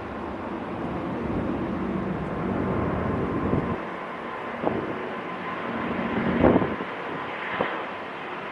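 Jet engine noise from an Airbus A350's Rolls-Royce Trent XWB engines, a steady rumble with a faint whine, mixed with wind buffeting the microphone. There are a few sharp knocks from gusts, the loudest about six and a half seconds in.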